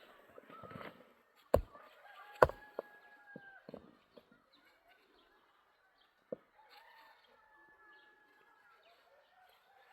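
Several sharp knocks, the two loudest about a second and a half and two and a half seconds in, then fainter ones, with birds calling throughout, including two drawn-out held calls.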